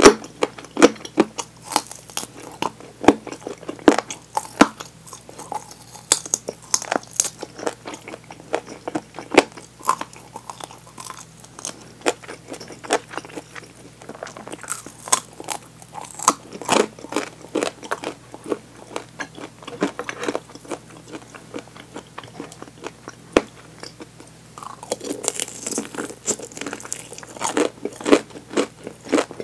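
Close-miked biting, crunching and chewing of a fried chicken drumstick's crisp breaded coating. The crackly crunches come thick at the start and again near the end, with slower chewing in between.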